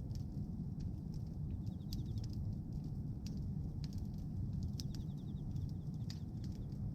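Bonfire of pruned tree branches burning: a steady low rush of flames with scattered sharp crackles and pops.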